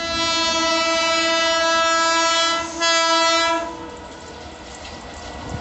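Indian Railways train horn sounding one long steady blast of about two and a half seconds, then, after a brief break, a shorter blast of about a second. After the horn stops, a quieter steady rolling noise of the train follows and grows louder near the end.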